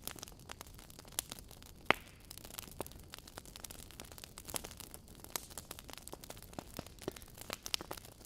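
Wood fire in a fireplace crackling: irregular sharp pops and snaps of burning logs over a soft hiss, with one louder pop about two seconds in.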